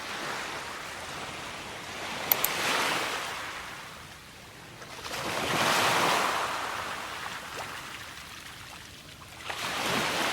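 Sea waves washing in on a shore, swelling and fading three times about three to four seconds apart. Two brief sharp clicks sound a little over two seconds in.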